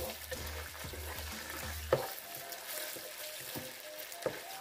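Oil sizzling in a pot as a wooden spatula stirs and scrapes tomato paste and onions through it, with a few knocks of the spatula against the pot, the loudest about two seconds in. Tomato paste is being fried in oil for a jollof rice base.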